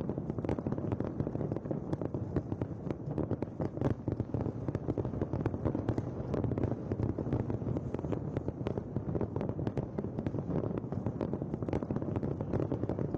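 Aerial fireworks display going off in a dense, continuous barrage: rapid sharp bangs and crackles overlapping on a steady heavy rumble.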